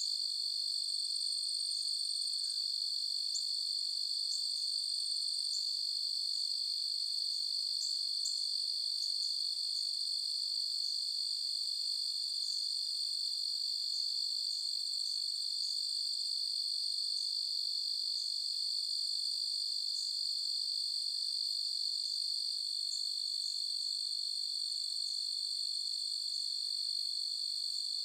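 Night chorus of crickets: a steady, unbroken high-pitched trilling in a few overlapping pitches, with scattered short higher chirps through it.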